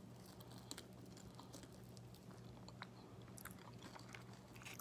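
Faint chewing and small mouth clicks from someone eating a chicken wing, over a steady low hum.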